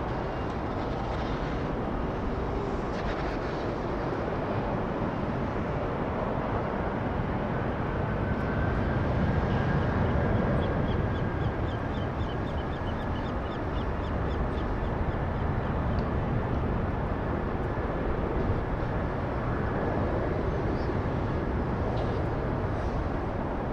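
Jet airliner engines rumbling across the airfield, swelling to their loudest about ten seconds in. A rapid run of high chirps sits on top briefly a little after that.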